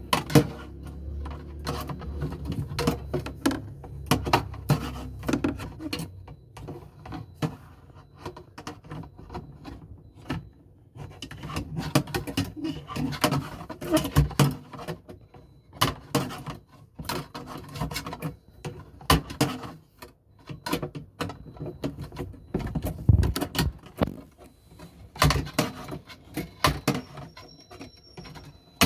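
Irregular clicks, knocks and rattles from hands and a wire working at a washing machine's plastic drainage pipe to free a blockage of socks.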